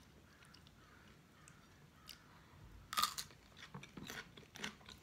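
Close-up mukbang eating sounds: after a quiet start, a run of crisp crunches and chewing begins about three seconds in, the loudest crunch coming first.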